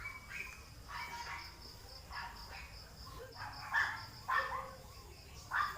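A dog barking repeatedly, faint, with short barks coming every half second to a second. Under it runs a steady, high, pulsing chirp of insects.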